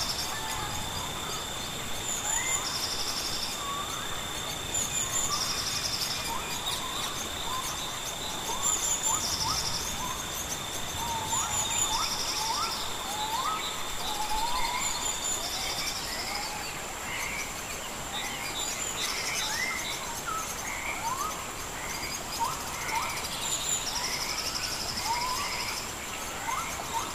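Birds calling, short rising chirps repeated every second or so, over a steady high insect whine that stops about halfway, with a buzzy call repeating every few seconds.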